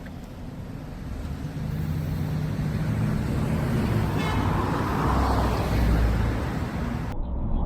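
Car engine and road noise of a moving vehicle, a low steady hum that grows louder partway through.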